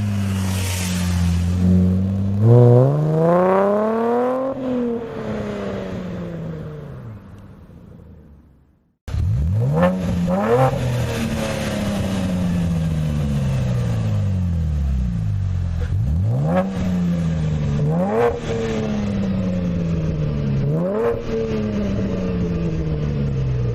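2014 Chevrolet Camaro V6 with an MRT aftermarket exhaust accelerating past, its pitch climbing then falling away as it fades out. After a break, the exhaust runs loud again with several sharp rises in engine speed, each sinking back slowly.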